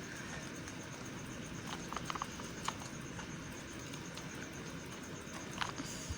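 A knife cutting a bar of white soap, giving a few short, crisp clicks and cracks, clustered about two seconds in and again near the end, over a steady background hiss.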